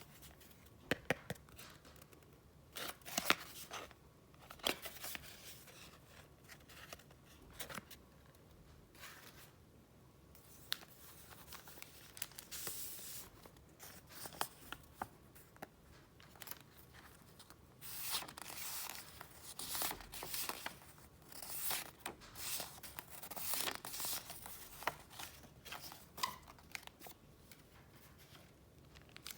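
Paper being handled: rustling and crinkling with scattered light taps and clicks. It grows busier in the second half.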